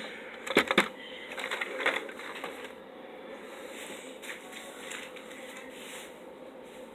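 Plastic packaging being handled, with a few crinkles and light taps in the first couple of seconds. After that only a faint steady hum remains.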